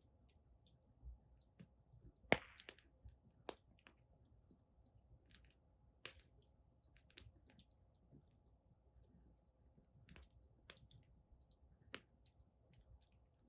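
Firewood burning in an outdoor fire pit, crackling with irregular sharp pops and snaps; the loudest pop comes a little over two seconds in.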